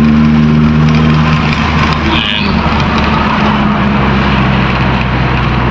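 Toyota 2E four-cylinder engine of a Corolla running under way on a test drive, with a steady engine note that drops lower about two seconds in.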